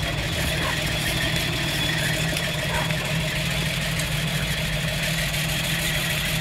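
Toyota Land Cruiser FJ60's inline-six engine idling steadily.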